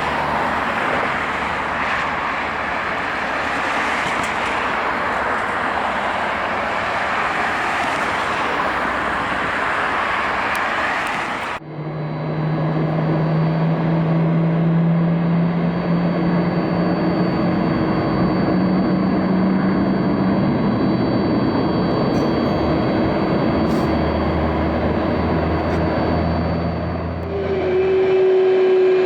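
Boeing 767 jet engines running: a broad roar, then after an abrupt cut a steadier engine whine with a slowly rising low tone and a thin high whine, and another cut near the end to a different steady engine tone.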